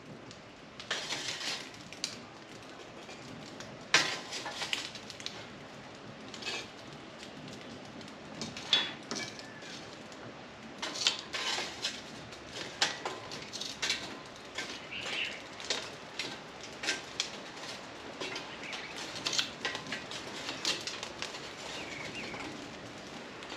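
Scattered light clinks and clatters of charcoal briquettes and cast iron cookware being handled, the loudest about four seconds in.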